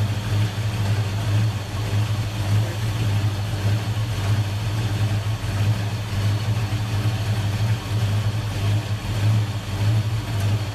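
Car engine running steadily at a constant low pitch.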